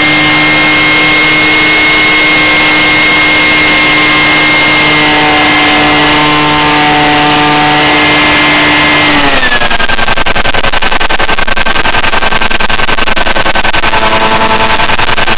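Electric RC plane's brushless motor and propeller whining at high throttle, heard from a camera riding on the plane. About nine seconds in the pitch slides down and settles lower as the throttle is eased back.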